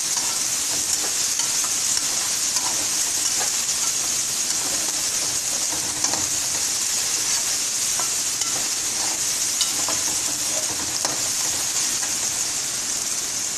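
Chicken pieces frying in hot oil in a metal wok, a steady sizzle, while a slotted metal spatula stirs and scrapes them around the pan with scattered light scrapes and taps.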